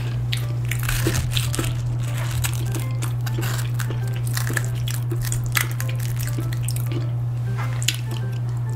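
A person chewing food close to the microphone: many short crisp crunching clicks and wet mouth sounds over a steady low hum.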